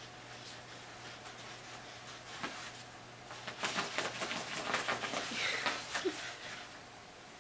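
A Shiba Inu's paws scratching rapidly as he digs, in a quick flurry of scratches lasting nearly three seconds from about the middle.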